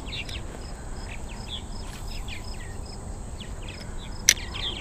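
Birds chirping throughout in many short, quick, falling notes over a low steady outdoor background, with a faint high tick repeating evenly. One sharp click comes near the end.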